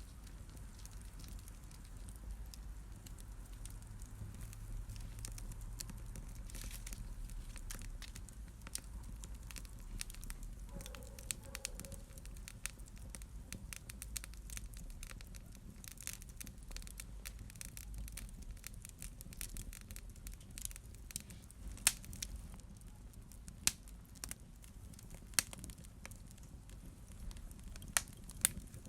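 Fire in a fireplace crackling, with a steady low rumble under many small sharp clicks and a few louder pops in the last third.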